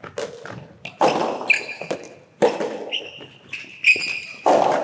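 Soft tennis rally on an indoor court: the rubber ball is struck by rackets three times, about a second and a half apart. Short high squeaks come in between, which fit court shoes on the floor.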